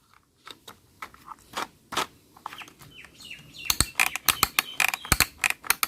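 Plastic toy parts clicking and knocking as the mixer drum is fitted onto a toy concrete mixer truck. The clicks are sparse at first and then come thick and fast from about halfway, some with a short high squeak.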